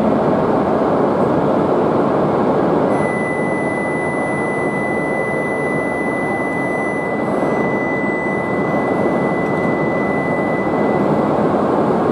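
E5 series shinkansen at the platform: a loud, steady rushing running noise from the train, echoing under the station roof. A steady high-pitched tone comes in about three seconds in and fades out near the end.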